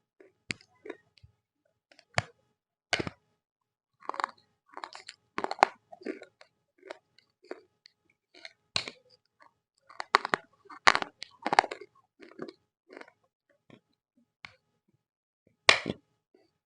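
Close-up crunching and chewing of roasted Multani mitti (fuller's earth clay): irregular sharp crunches in clusters with short pauses, the loudest run a little past the middle and one strong bite near the end.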